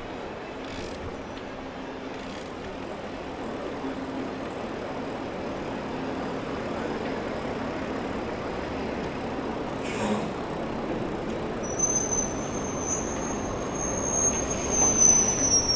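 City street traffic and road noise heard from a moving bicycle, a steady rushing noise with a faint low hum. About twelve seconds in, a high-pitched squeal starts and slowly drops in pitch, loudest near the end.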